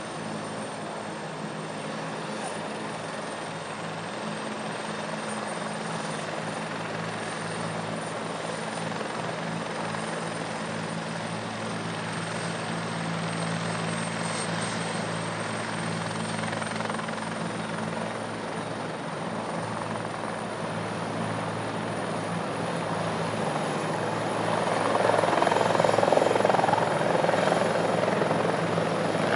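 Rescue helicopter running steadily: a low rotor and engine drone with a thin high whine over it, growing louder about 25 seconds in as it comes closer.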